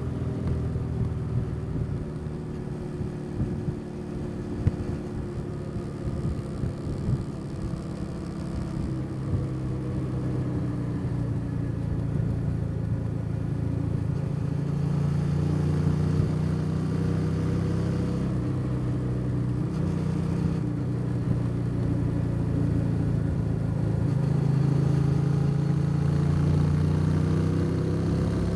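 Motorcycle engine running on the road, its pitch dipping and climbing a few times as the bike eases off and picks up speed, over a steady low rumble.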